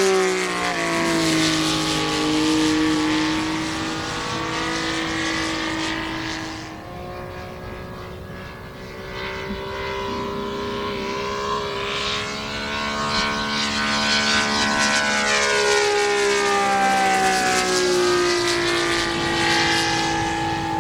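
Saito FG-84 three-cylinder four-stroke radial engine on an RC Corsair model in flight, making low passes. Its pitch drops as it goes by near the start and again in the second half, and it grows fainter in the middle as the plane flies farther off before coming back.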